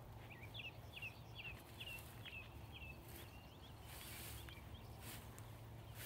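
A bird singing a run of about eight short, repeated chirping notes over the first three seconds, then a few fainter notes, over a low steady hum.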